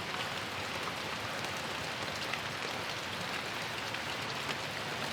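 Steady rain, an even hiss with faint scattered ticks of drops, as an ambient intro before the music starts.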